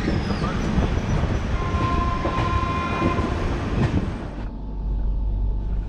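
Passenger train running through a station, heard at an open coach doorway: wheels rumbling and clattering on the rails, with a steady high tone for about a second and a half in the middle. A little past four seconds the sound drops to a duller, steady low rumble.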